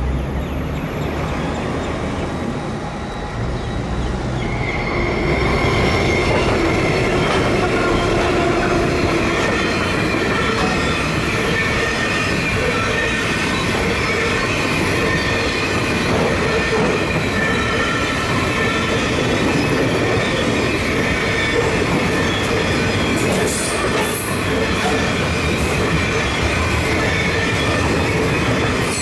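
Container freight train hauled by two 81 class diesel locomotives passing close by, getting louder about four seconds in. From about five seconds in, the wagon wheels squeal steadily against the rails over the rolling rumble.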